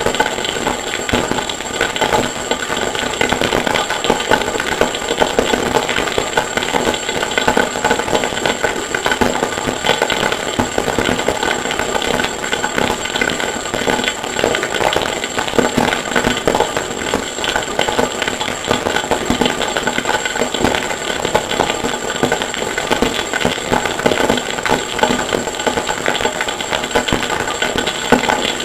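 Harsh noise music: a dense, unbroken wall of rapid rattling, clattering noise with a thin steady high whine over it, made from a sampled recording of forge work.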